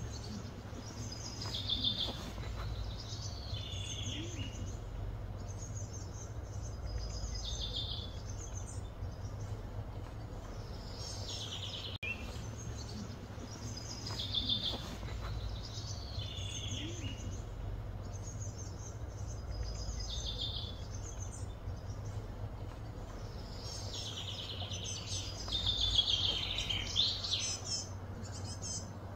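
Wild birds calling: short, high, falling phrases repeated every few seconds, loudest and busiest near the end, over a steady low rumble.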